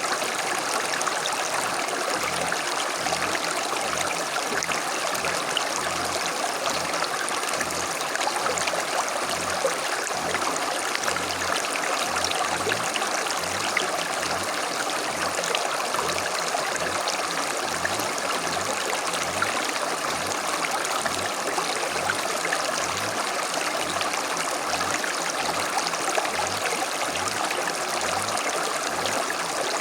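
Small creek running over stones, a steady babbling and trickling flow.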